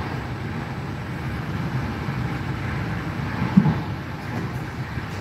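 Steady rumble of a moving passenger train heard from inside the carriage, the running noise of wheels on track, with one brief louder bump a little past halfway.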